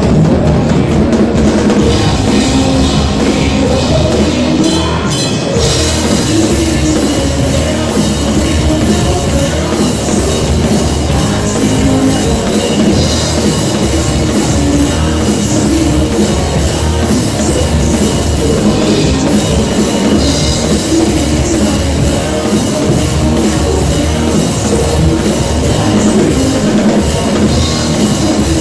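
Live rock band playing loud, with the drum kit up front; a bright cymbal wash comes in about five seconds in.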